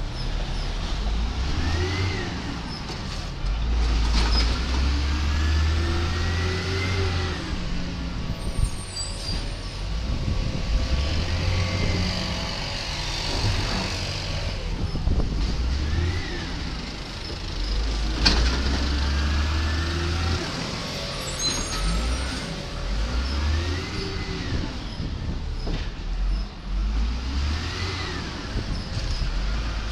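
Garbage truck's Cat 3126 diesel engine working an Amrep automated side-loader arm, its pitch rising and falling in repeated swells every few seconds as the hydraulics cycle. There is a sharp knock about 18 seconds in.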